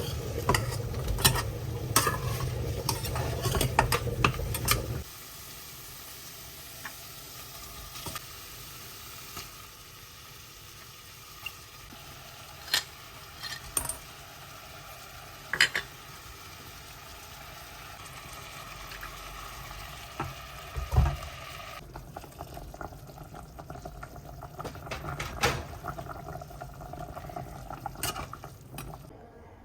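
Kitchen cooking sounds: a steady sizzle with utensils clinking and scraping against a pan or dishes, a few sharp clicks scattered through. The first five seconds are louder.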